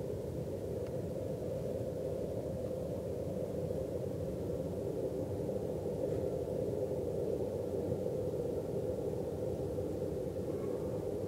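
A loud, steady drone coming from the sky, an even rushing hum centred in the low-middle range over a deeper rumble, holding without change; its source is unidentified.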